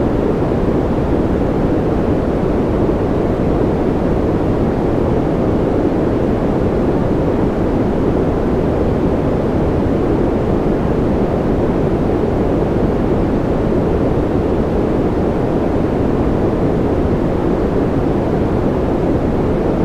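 Steady generated noise for sleep, sold as white noise: an even, unchanging rushing hiss, heaviest in the low and middle range and softer in the highs.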